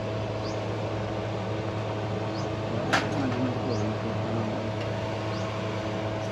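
Steady mechanical hum with a constant whine, and one sharp click about three seconds in.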